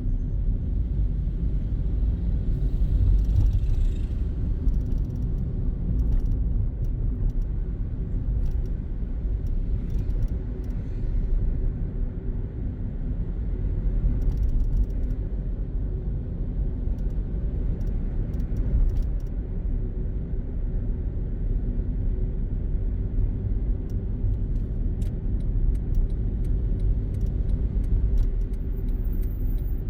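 Car driving on city streets, heard from inside: a steady low engine and road rumble, with faint clicks that become more frequent near the end.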